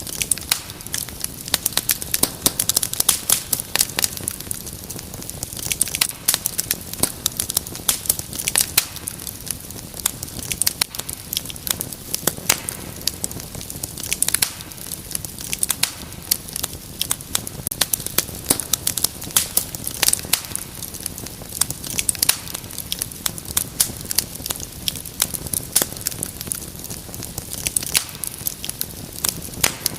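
Wood fire crackling: frequent sharp, irregular pops and snaps over a soft steady hiss.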